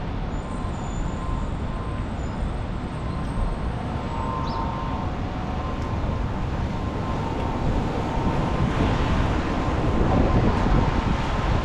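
Steady city traffic noise on wet streets, a constant low rumble that grows a little louder in the last few seconds.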